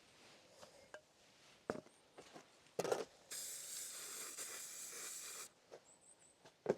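Aerosol can of heat-resistant spray paint: a couple of light knocks, then one steady hiss of spraying lasting about two seconds.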